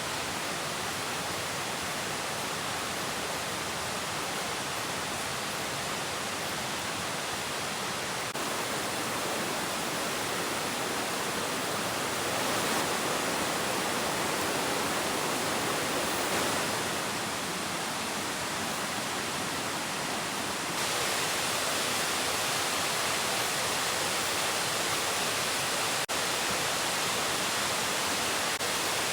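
Steady rushing of falling water from a waterfall: a dense, even noise, stepping slightly louder about 8 and 21 seconds in.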